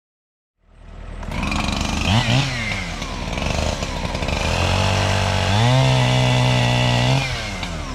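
Chainsaw engine running: a quick blip of the throttle, then it is revved up and held at a higher steady speed before dropping back.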